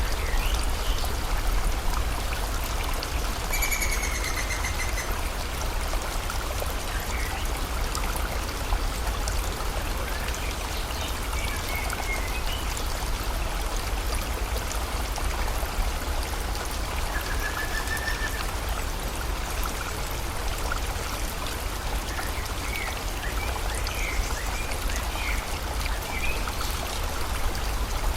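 Steady rush of flowing river water and falling rain, with birds calling over it: a trill about four seconds in, a short call past the middle, and a few quick chirps near the end.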